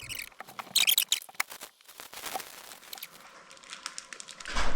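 Plastic poultry shrink bag crinkling and crackling as it is handled around a whole dressed chicken, in a run of short sharp crackles. A louder low rumbling knock comes near the end.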